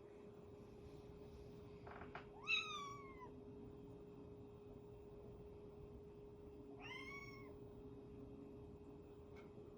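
Young cat meowing twice: a longer call with falling pitch about two and a half seconds in, then a shorter one around seven seconds.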